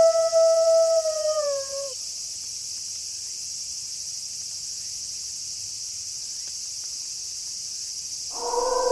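Wolf howl held on one pitch, then sliding down and fading out about two seconds in. A steady high hiss carries on alone until a second, lower howl starts near the end.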